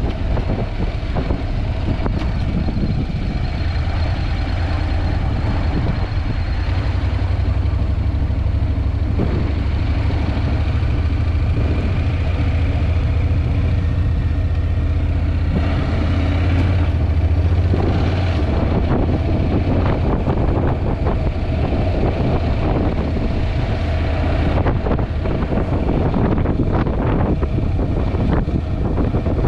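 Wind rumbling over a GoPro's built-in microphone while riding a Honda NC750X, with the motorcycle's parallel-twin engine running steadily underneath.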